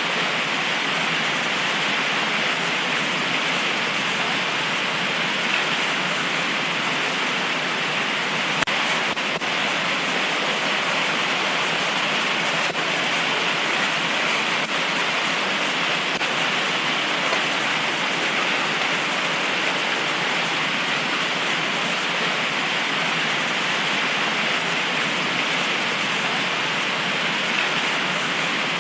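Heavy tropical rain pouring steadily, a dense even hiss with a few faint ticks.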